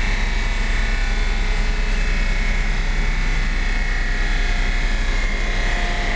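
BMW E39 M5's 4.9-litre V8 running hard at high road speed on a roller dynamometer, heard from inside the cabin. Engine, exhaust and tyres on the rollers make one loud, steady drone with no clear change in pitch.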